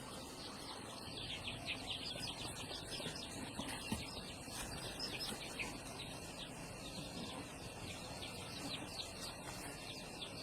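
Small birds chirping over and over, in quick runs of short high chirps that fall in pitch, over a steady outdoor hush, with a single knock about four seconds in.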